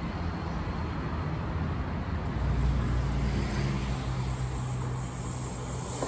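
KTMB ETS electric multiple-unit train running through the station: a steady low rumble with a low motor hum, loudest about two and a half seconds in.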